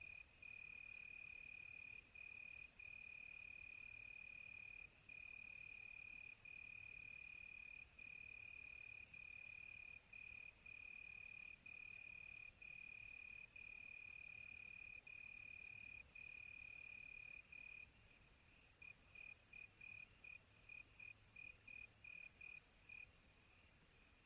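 Crickets chirping at night, faint: a steady high-pitched trill broken by short gaps every second or so. About three-quarters of the way through it breaks into quick separate chirps. A fainter, higher insect pulsing runs under it for much of the time.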